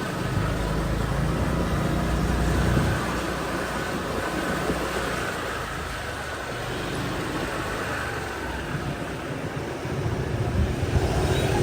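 Street traffic heard from a moving motorbike: a steady low engine and road rumble with passing vehicles, easing off mid-way and growing louder again near the end.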